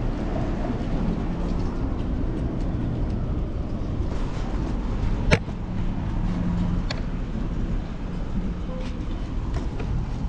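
Steady rush of road and traffic noise with wind on a chest-mounted action camera during a fixed-gear bicycle ride. A single sharp click about five seconds in.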